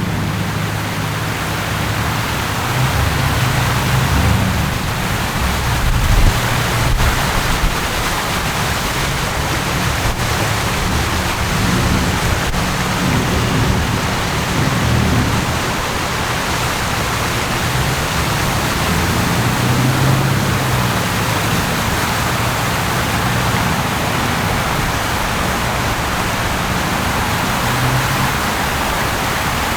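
Steady city street noise: a constant hiss with the low hum of vehicle engines swelling and fading under it.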